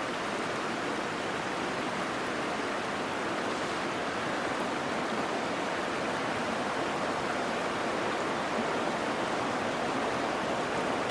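Water of a mountain waterfall and its stream rushing steadily, an even, dense noise without breaks.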